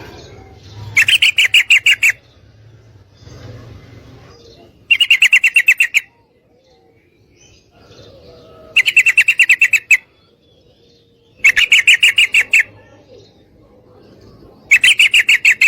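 Female yellow-vented bulbul (trucukan) calling: five short bursts of rapid chattering notes, about ten notes a second, each burst lasting about a second and coming every three to four seconds. It is the female's call to males.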